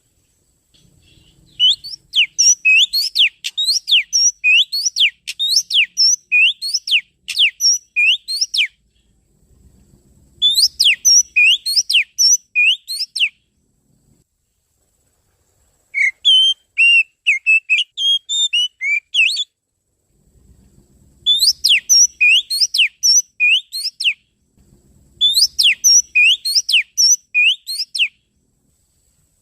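Oriental magpie-robin (kacer) lure song: bouts of a few seconds each of loud, repeated whistled notes sliding steeply down in pitch, about two a second, with short pauses between bouts. The bout near the middle is made of more varied, chattering notes.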